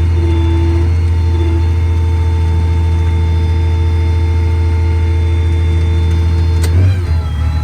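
Heavy diesel engine of harvest machinery running steadily, with a strong low drone and several steady whining tones over it. Near the end a sharp click comes and the engine note briefly changes.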